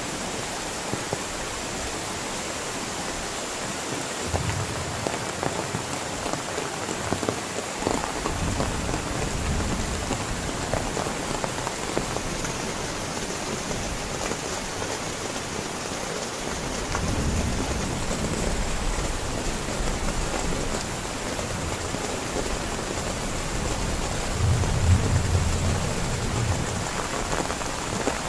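Heavy rain falling steadily, with low rumbles of thunder a few times, the strongest near the end.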